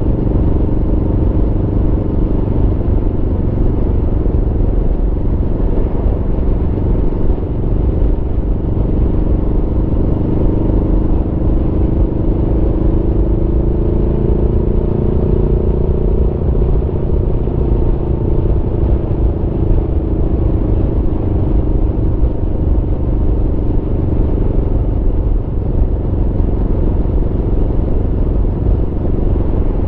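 Aprilia Tuono V4's V4 engine running under way on the road at a steady pace, its note slowly rising about halfway through and easing back down again.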